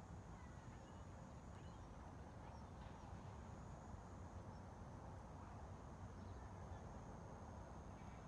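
Faint, steady ambient background noise: a low rumble under a thin, steady high-pitched whine, with a few soft ticks scattered through it.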